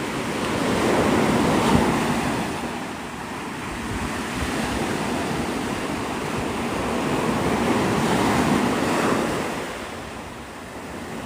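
Surf on the beach: small waves breaking and washing up the sand, swelling about a second in and again about eight seconds in, then easing near the end, with some wind on the microphone.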